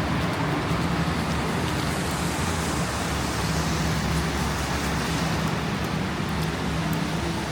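Steady street noise of traffic mixed with wind, with a low engine hum that comes and goes.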